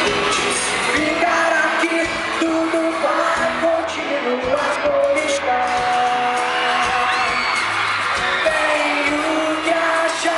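Pop band playing live with singing, heard from the audience at a concert, with held sung notes over the band.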